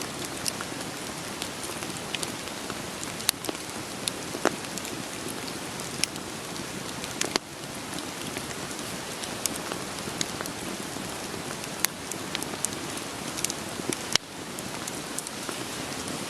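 Steady rain hiss mixed with the scattered sharp crackles and pops of burning firewood in a campfire. The level dips briefly twice.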